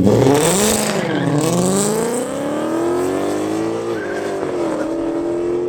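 Car engine launching hard off the line and pulling through the gears, its pitch climbing and dropping sharply at each upshift, with a short tire squeal at the launch.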